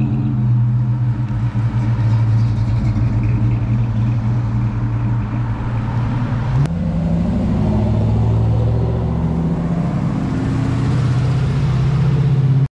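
Car engines running as muscle cars drive slowly past one after another, a steady low engine hum that rises in pitch a little past halfway through as a car passes close.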